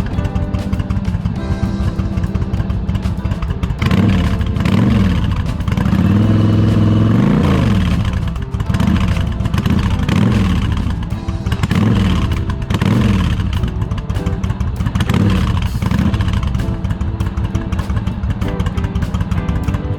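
Yamaha XV1100 Virago V-twin engine revved in repeated short blips, its pitch rising and falling back each time.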